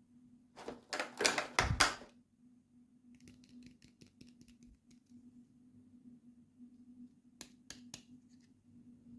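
Hands handling small plastic toy pieces and packaging: a dense run of sharp clicks and rattles near the start, faint quick ticks after, then three sharp clicks near the end, over a steady low hum.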